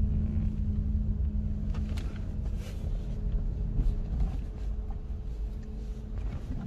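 Motor vehicle engine running, heard from inside the moving vehicle: a steady low rumble with a held engine tone that eases off slightly toward the end.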